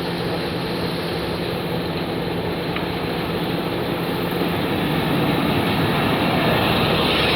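A 1977 Chevrolet Corvette's 350 cubic inch small-block V8 running steadily at idle, growing somewhat louder about halfway through.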